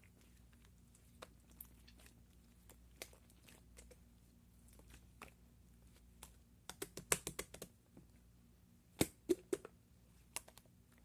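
Irregular light clicks and taps, sparse at first, then two quick clusters about seven and nine seconds in, the second holding the loudest taps.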